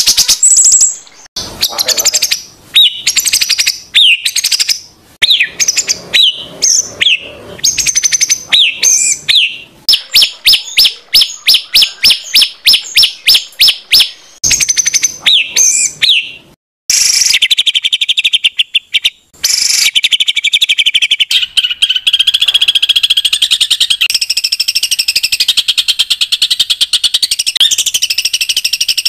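Songbird song from a masteran training recording: loud, harsh phrases of sharp sliding calls and a fast run of repeated notes, about four a second. Past the middle it turns into a continuous dense chattering trill.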